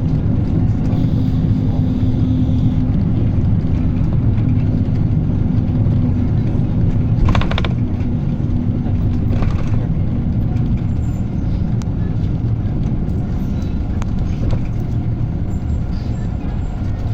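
PAZ-320405-04 "Vector Next" city bus engine and drivetrain droning steadily while the bus drives, heard from inside the cabin. There are two brief hisses, about seven seconds in and again two seconds later.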